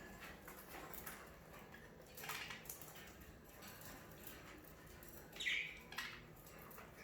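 Budgerigars chirping faintly in short scattered calls, with one louder chirp about five and a half seconds in.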